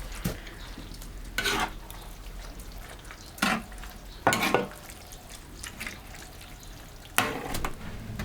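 Food sizzling in a hot pan, with four short scraping strokes of a spatula stirring it.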